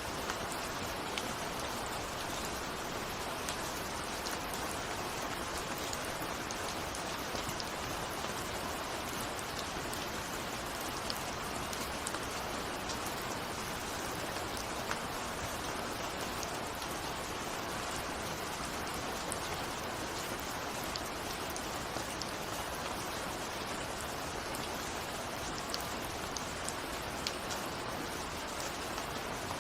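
Steady rain falling, an even hiss with scattered distinct drop ticks, the sound of raindrops on a window.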